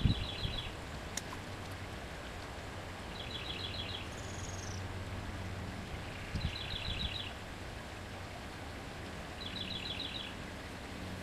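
A songbird repeating a short, rapid trill of high notes about every three seconds over a steady wash of flowing creek water.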